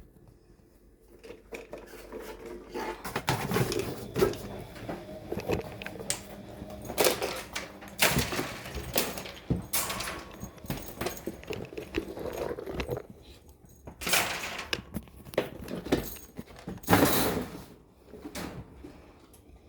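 Irregular jangling, clattering and scuffling, with several louder noisy bursts.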